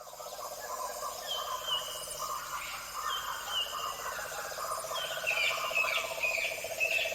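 Rainforest-style nature ambience: birds give short whistled calls that slur downward, repeated every second or so and busiest near the end, over a steady, rapidly pulsing animal chorus.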